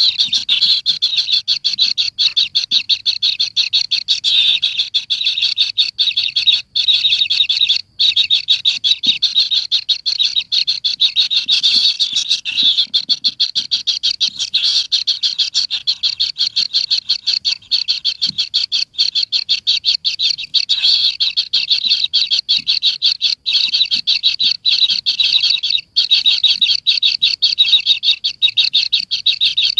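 Continuous high, rapid chirping calls, many short pulses a second, running on without a break.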